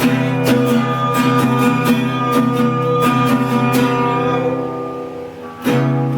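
Acoustic guitar strummed in a steady rhythm, about two strokes a second, with the chords ringing on. The strumming dies away about five seconds in, then a fresh chord is struck near the end.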